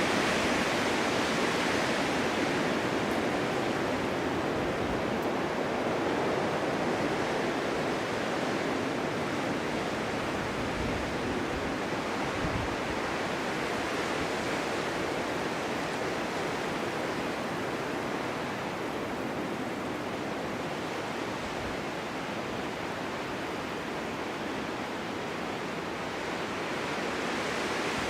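Strong winter wind blowing steadily, a dense rushing hiss that swells near the start and eases slightly past the middle.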